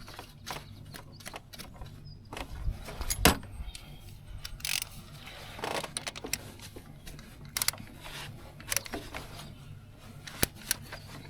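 Irregular metallic clicks and clinks of hand tools and engine parts being handled during timing belt work, with one louder knock about three seconds in.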